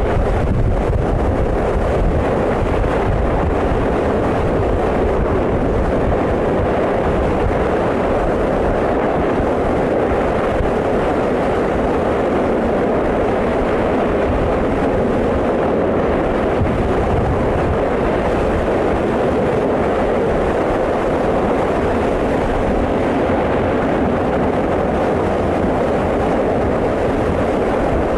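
Active lava at close range: a loud, steady rushing rumble with no breaks or distinct bursts.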